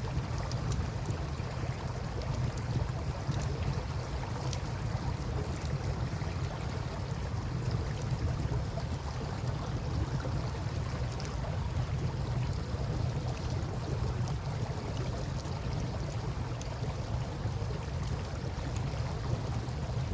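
Wood campfire crackling with scattered small pops over a steady rush of river water and a low wind rumble.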